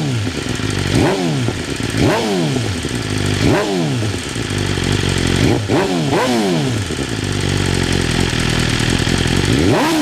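BMW S1000RR's 1000 cc inline-four engine, breathing through a full titanium exhaust system, blipped at a standstill: quick revs that rise sharply and fall back to idle about six times, with a steady idle from about six and a half seconds until one last blip near the end.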